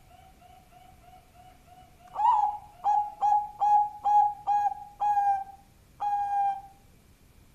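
Zebra dove (perkutut) cooing: a faint quick run of soft notes, then from about two seconds in a loud series of about eight clipped coos, the last two drawn out longer.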